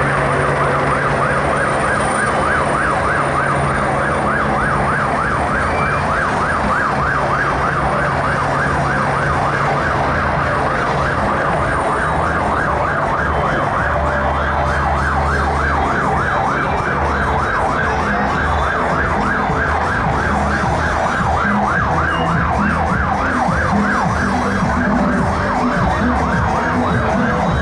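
Siren sounding in a fast yelp, its pitch rising and falling several times a second without a break, over a steady low hum.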